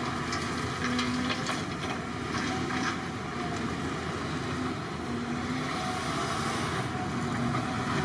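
Excavator engine running steadily, with a few short metallic knocks in the first three seconds.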